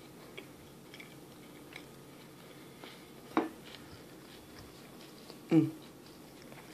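A person chewing a soft fried-egg sandwich close to the microphone: faint wet mouth clicks, with two short, louder mouth sounds about three and a half and five and a half seconds in.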